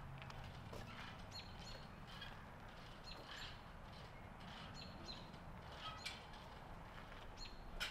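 Small birds chirping faintly: short high calls, each dipping in pitch and then holding briefly, scattered every second or so over a low steady rumble, with a sharp tap near the end.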